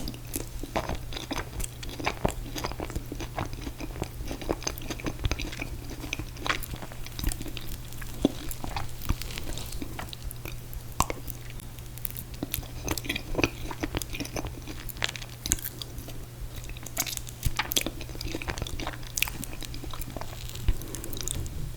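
Close-miked chewing and biting of mint chocolate chip ice cream cake, a steady run of small wet mouth clicks and light crunches, over a low steady hum.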